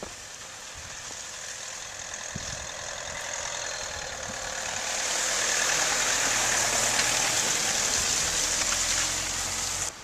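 A motor vehicle's engine running under a steady hiss. The sound grows louder over the first half, then holds steady.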